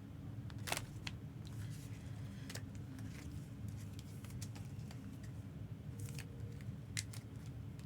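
Scattered light clicks and rustles of trading cards and their packaging being handled, two of the clicks sharper than the rest, over a steady low hum.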